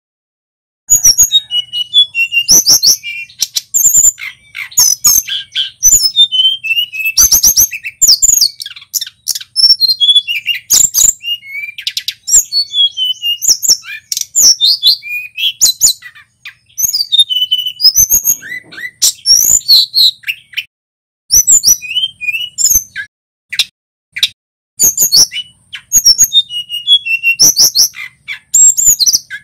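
Male tledekan gunung, a small Javan flycatcher, singing loud, rapid runs of high whistled and chattering notes with only brief pauses. The loud recording is studded with sharp clicks.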